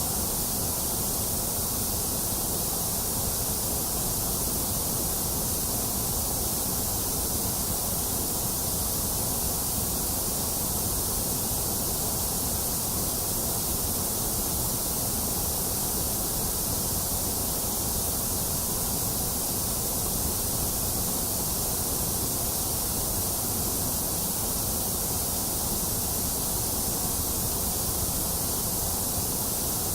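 Steady white noise: a constant, even hiss with a low rush beneath it, unchanging throughout.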